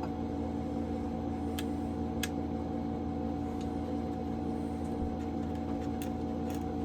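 Steady electrical or fan hum with several fixed tones, under a few scattered light clicks, about five in all, of small parts being worked by hand on a vintage Homelite chainsaw.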